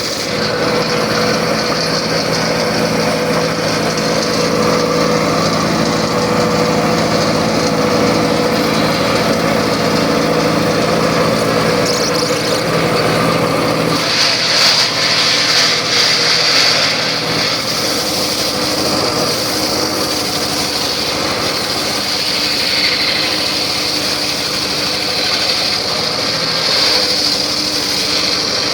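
Circular saw running steadily. About halfway through its sound changes: the lower hum weakens and a higher whine grows stronger.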